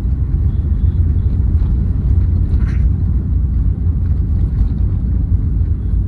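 Steady low rumble of a 2008 Hyundai Verna turbo-diesel car on the move, heard from inside the cabin: engine and road noise together, with a short higher rush near the middle.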